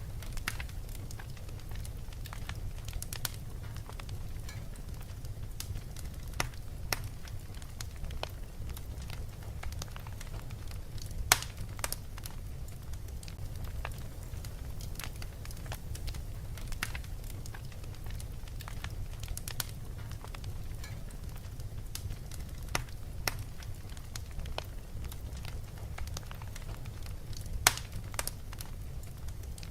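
Wood fire crackling, with irregular sharp pops and snaps over a steady low rumble; two louder pops stand out, about eleven seconds in and near the end.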